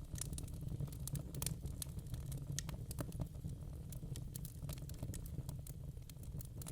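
Wood burning in a fireplace, crackling with many irregular sharp pops over a steady low rumble of the flames.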